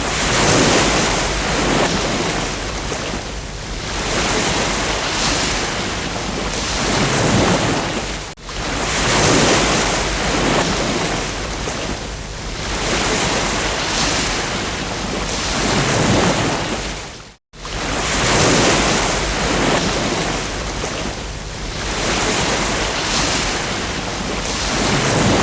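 Ocean surf: waves breaking and washing on a beach, swelling and easing every few seconds. The sound cuts out for an instant twice, about nine seconds apart, like a recording being looped.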